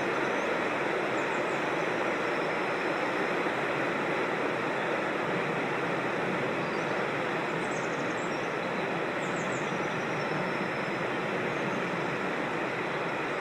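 Steady rush of flowing creek water, even and unbroken. A bird's faint, high, falling calls come through it twice, near the start and again in the middle.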